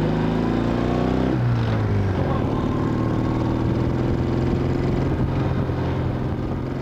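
Car engine running while driving. Its pitch climbs a little, drops about a second and a half in, then holds steady.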